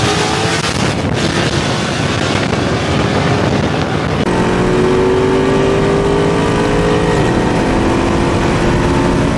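Loud car engine sound cut from racing footage, with an edit about four seconds in. After the edit, an engine's pitch climbs steadily under acceleration, then drops off about seven seconds in.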